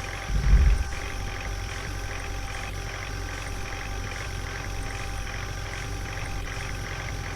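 Truck engine idling steadily, with a brief louder low rumble about half a second in.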